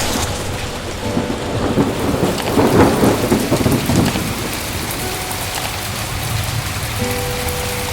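Heavy rain falling steadily, with a roll of thunder that swells up about two and a half seconds in and dies away by about four seconds.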